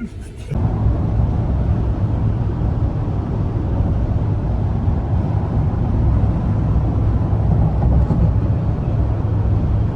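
Steady low rumble of a vehicle travelling on the road, with engine, tyre and wind noise and no clear revving, starting abruptly about half a second in.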